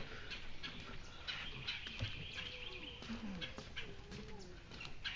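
Wild birds chirping: many short high calls and one longer call about a second and a half in, with faint distant voices underneath.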